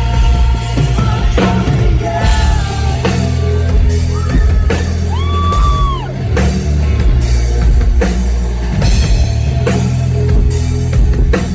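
Rock band playing live, with a drum kit, electric guitars and bass under a male lead vocal. The singer holds a long note about halfway through.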